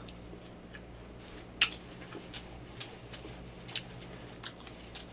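Person chewing food close to the microphone, with a few sharp mouth clicks, the loudest about a second and a half in, over a faint steady electrical hum.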